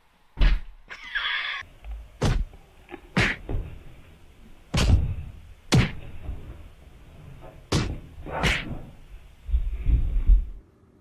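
A series of sharp thumps and knocks at uneven intervals, about seven in all, with a low rumbling thud near the end.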